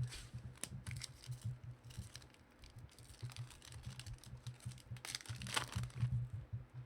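Trading cards and their packaging being handled: scattered light clicks and rustles, with a louder crinkling rustle about five seconds in, over a low steady hum.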